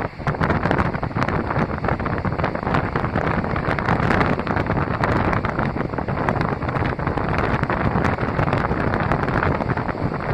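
Wind buffeting the microphone: a loud, steady rushing noise with uneven gusty flutter and no clear pitch.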